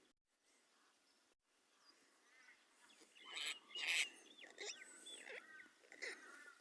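A group of happy jack birds calling: nearly quiet at first, then from about halfway in, harsh chattering notes mixed with rising and falling whistled calls from several birds at once.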